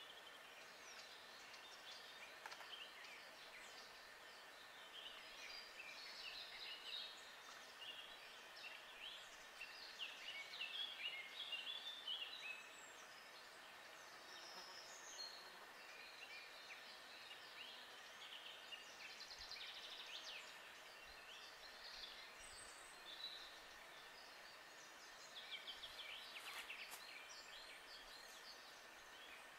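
Faint woodland birdsong: several small birds chirping and trilling, busiest about a third of the way in and again near the end, over a faint steady hiss.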